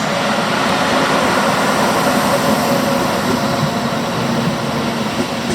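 Electric train at a station platform, a loud steady rumble and hum from its running equipment, with no distinct clanks or squeals.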